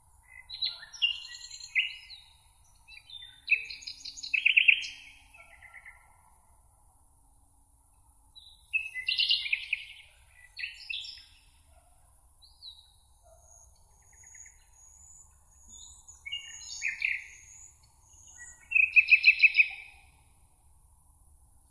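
Songbirds singing in a meadow: about six separate, varied song phrases with gaps between them, the loudest, a little after four seconds and near the end, built of fast repeated notes. A thin, high, faint whistle runs through the middle, over a light steady background hiss.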